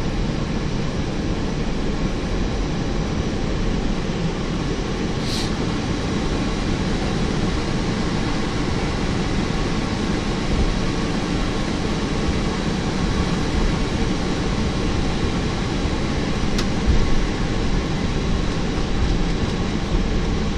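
Steady rumble and air noise inside an Airbus A321 cockpit, with a brief faint hiss about five seconds in and a faint click later on.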